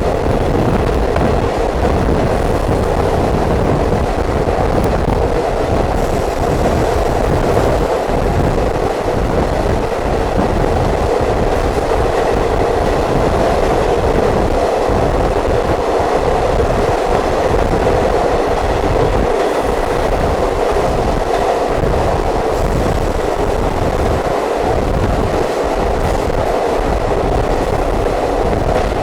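Diesel multiple unit train running, heard from on board: a steady loud rumble of the moving train with the rattle of wheels on the track.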